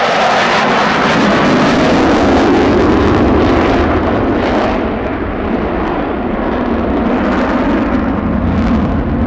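Lockheed Martin F-35 Lightning II's single F135 jet engine running loud during a display pass, a steady rushing jet noise that eases off slightly about halfway through.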